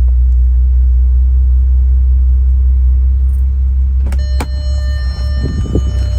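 2004 Bentley Continental GT's twin-turbo W12 idling after a cold start with a steady low rumble. About four seconds in, two sharp clicks, followed by several steady high tones.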